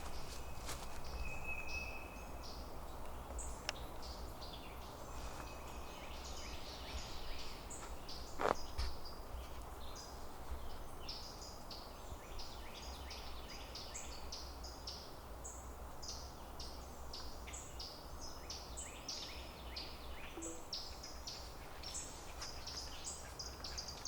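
Woodland birds chirping and calling, many short high notes scattered throughout, with a couple of brief thin whistles early on, over a steady low rumble. A single sharp knock sounds about eight seconds in.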